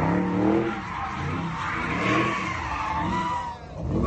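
A car's tires squealing in a wavering screech under hard wheelspin, with its engine revving underneath. The squeal dies away about three and a half seconds in.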